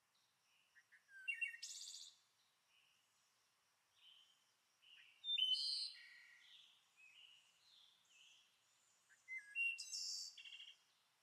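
A songbird singing in three short bursts of chirps and quick trills, with quiet gaps between them.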